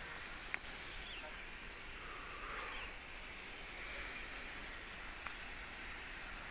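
Steady hissing outdoor ambience with a couple of sharp snaps or clicks, one about half a second in and one a little past the five-second mark.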